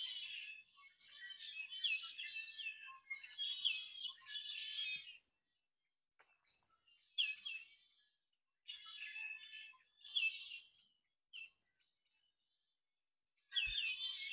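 Songbirds chirping and twittering in several bursts a few seconds long, with silent gaps between them.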